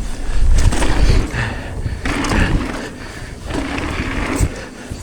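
Mountain bike riding over a dirt trail: tyres rolling and chattering on the ground in uneven swells. Wind buffets the camera microphone, heaviest in the first second.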